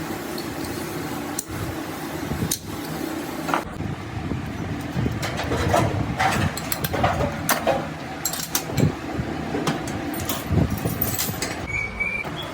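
A machine runs with a steady low hum while metal parts knock and clank irregularly, the knocks coming thick from about four seconds in.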